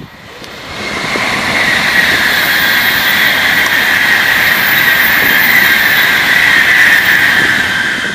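N700A Tokaido Shinkansen bullet train passing through the station at high speed without stopping. A loud rush of wheel, rail and air noise swells over about the first second, holds steady with a high hiss, and begins to fade near the end.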